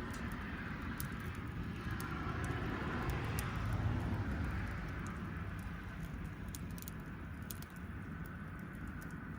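Wood fire burning: a steady low rush with scattered sharp crackles and pops.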